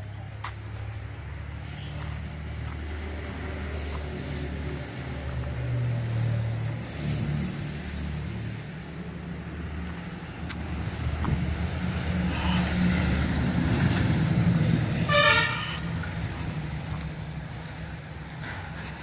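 A vehicle engine running with a low hum that builds about twelve seconds in. A short horn toot comes about fifteen seconds in.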